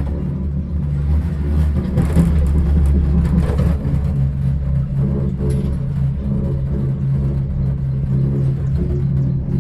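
Steady low mechanical hum and rumble heard inside a moving cable car cabin, swelling a little rougher for a couple of seconds about two seconds in.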